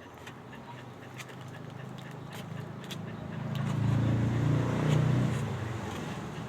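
A vehicle engine passing by: its hum grows louder to a peak about four to five seconds in, then fades away.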